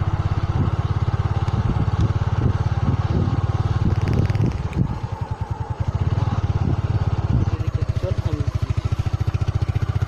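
Motorcycle engine running steadily under way, its exhaust pulsing rapidly in a deep low rumble, easing off slightly about halfway through.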